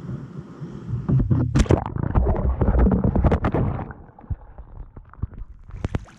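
Paddling a kayak: irregular water splashing and knocks from the paddle strokes, loudest for about three seconds starting about a second in, then softer scattered clicks.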